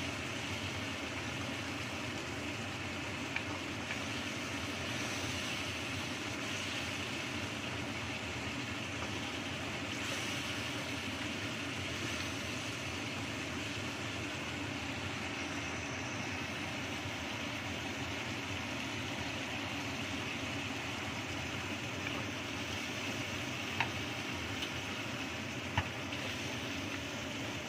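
Chili spice paste sizzling steadily in hot oil in a wok as it is stirred with a wooden spatula, with a few sharp taps of the spatula on the pan, two of them near the end.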